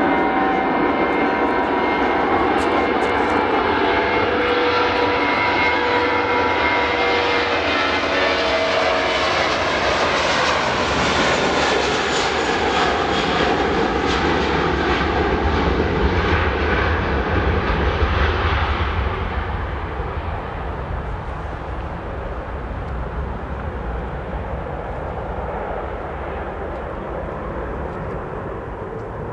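Airbus A320-232 jet airliner's IAE V2500 turbofans running loud, a dense roar with whining tones as it passes. The roar falls away and turns duller about two-thirds of the way through.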